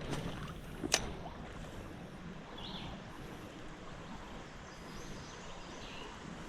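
Steady outdoor background noise beside a creek, with one sharp click about a second in and a faint, brief high chirp a little later.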